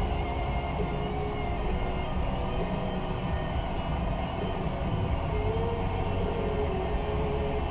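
A 2015 Infiniti QX60's 3.5-litre V6 engine running steadily, with a faint wavering whine over its low rumble.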